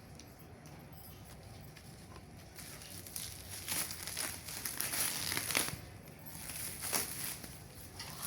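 Packaging crinkling and rustling as a parcel is handled and opened, starting about two and a half seconds in, with another short burst near the end.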